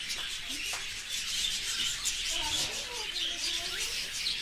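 A flock of budgerigars and cockatiels chirping and chattering continuously, a dense mass of overlapping high twitters with a few lower gliding calls.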